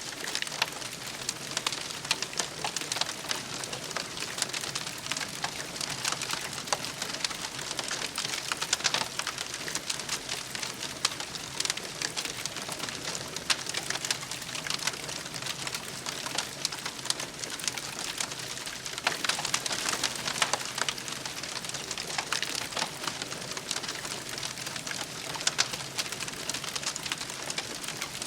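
Wood campfire crackling, with a dense, continual run of small pops and snaps over a steady hiss.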